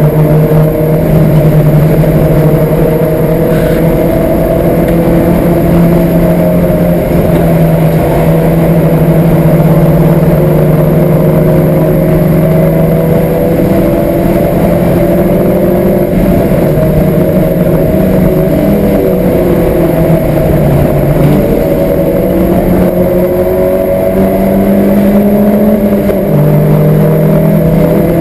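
Citroen Saxo's engine, with a Pipercross air filter and a four-branch exhaust manifold, running hard on a racing lap, heard from inside the cabin. The note holds fairly steady with small rises and dips in pitch, and steps up briefly near the end.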